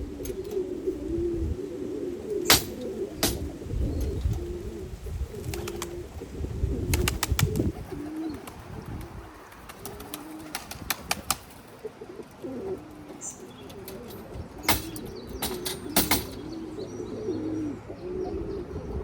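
Domestic pigeons cooing almost without pause, the male courting a hen. Sharp clicks or knocks cut in here and there, some in quick runs.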